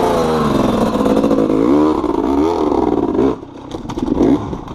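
Small off-road vehicle engine revving hard, its pitch surging up and down several times, then falling away about three seconds in to quieter, uneven running.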